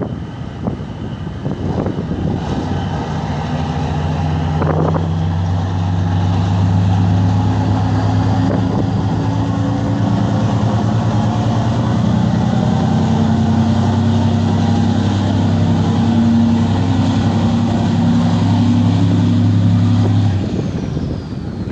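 A ship's horn sounding one long, low blast of about seventeen seconds that cuts off abruptly near the end, with wind noise on the microphone.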